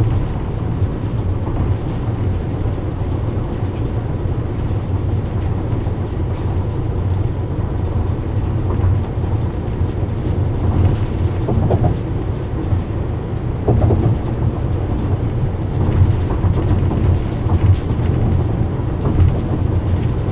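Steady low road rumble inside a car cruising at freeway speed, tyre and engine noise droning without a break.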